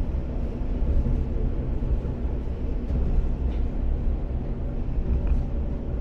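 etSETOra diesel railcar (a converted KiHa 47) under way: a steady low rumble of engine and wheels on the track, with a couple of faint clicks.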